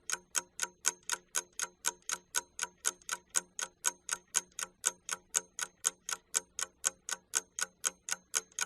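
Ticking-clock sound effect, an even run of sharp ticks at about four a second, used as a timer while students do the task.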